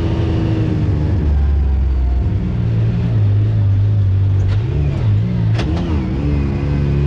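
Side-by-side UTV engine running at low speed, its pitch dropping, then rising, then wavering up and down as it is throttled on and off while manoeuvring, with a couple of light clicks.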